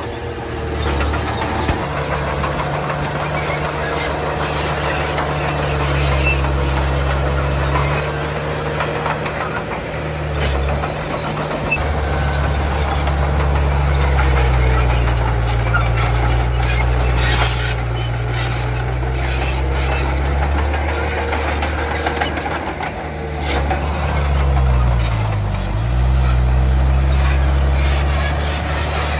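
Komatsu D31 crawler bulldozer's diesel engine working steadily while pushing soil, with scattered clanks and squeaks. Its pitch drops briefly near the middle and again, more deeply, about three-quarters of the way through as it lugs under load, then recovers.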